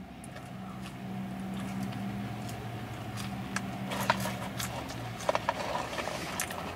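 Close-up chewing and small clicks and crackles of French fries being eaten and picked from a paper cup, over a low steady engine hum that fades out about five seconds in.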